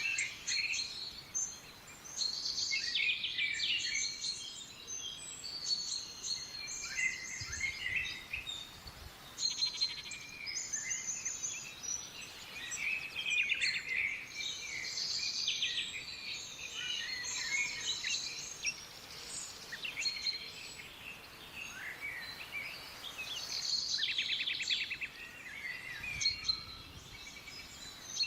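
A chorus of several wild forest birds calling and singing at once, with overlapping chirps, whistles and fast trills.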